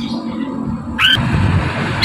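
Poksay mandarin laughingthrush giving one harsh call about a second in, a sudden squawk that slides up into a short rising note, over a steady low background hum.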